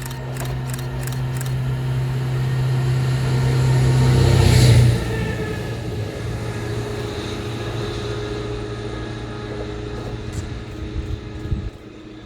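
A train passing close by: a steady low engine drone and rushing noise build up, peak about four and a half seconds in, then drop suddenly and fade away as it goes by.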